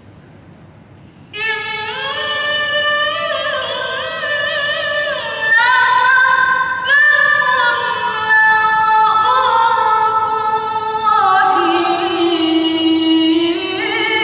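A woman reciting the Qur'an in the melodic tilawah style. She begins about a second in and sings one long, ornamented phrase on held, wavering notes, stepping down to a lower pitch near the end.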